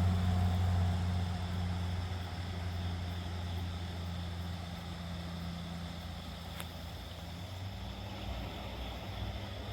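A motor vehicle's engine running with a steady low hum that gradually fades away. A single faint click comes about six and a half seconds in.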